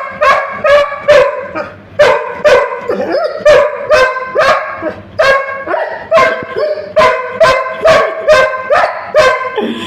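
A puppy barking over and over in short, high barks, about two to three a second, without a break.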